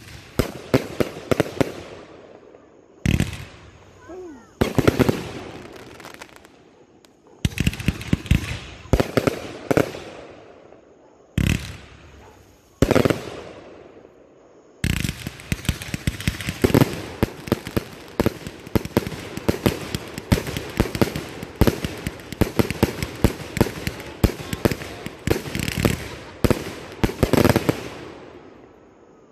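A 231-shot compound consumer fireworks cake firing: rapid shots and aerial bursts in short volleys of a second or two with brief gaps between them. From about halfway it becomes an almost continuous barrage.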